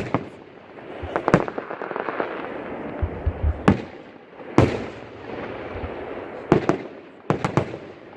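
Aerial fireworks going off: a run of sharp bangs, a few spaced a second or more apart and some in quick clusters, over a continuous crackle from the bursting shells.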